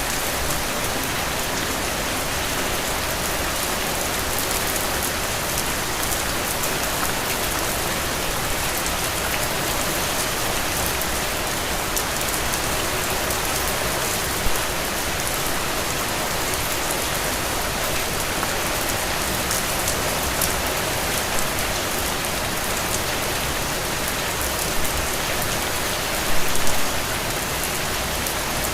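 Heavy rain falling steadily in an even hiss, with fine drop impacts throughout. A few louder drops or splashes stand out about 14 seconds in and again near the end.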